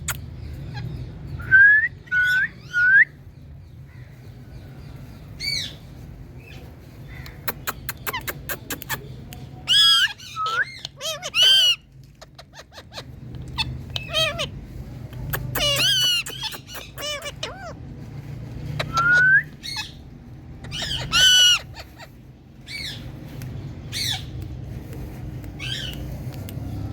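Rose-ringed parakeets (Indian ringnecks) calling again and again with short shrill screeches, and a few brief rising whistles among them, over a low steady hum.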